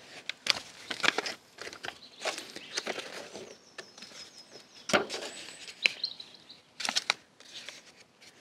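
Handling noise from seedling pots and trays being moved: irregular light knocks, clicks and rustles. A bird chirps briefly in a quick repeated phrase about four seconds in.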